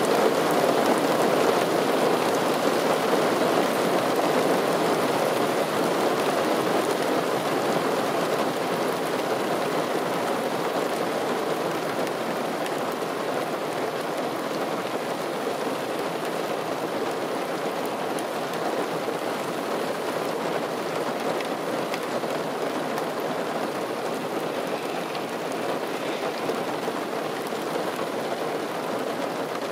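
Heavy rain falling steadily, a dense even hiss that eases slightly over the half minute.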